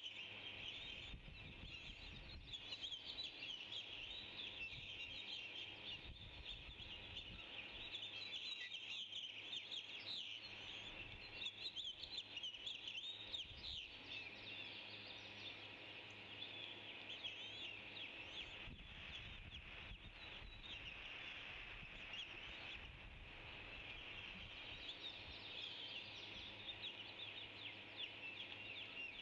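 A flock of small birds chirping, many short overlapping calls at once without a break.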